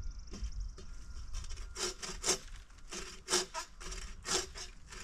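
Hand saw cutting through firewood, a run of rasping back-and-forth strokes beginning about two seconds in.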